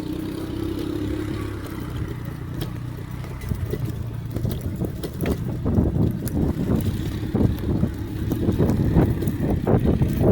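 Electric pit bike riding a bumpy, freshly wood-chipped trail: a steady motor whine with the bike rattling and knocking over the bumps, the knocking getting busier and louder from about halfway.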